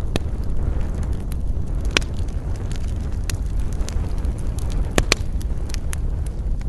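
Wood campfire crackling, with sharp irregular pops, the loudest a close pair about five seconds in, over a steady low rumble.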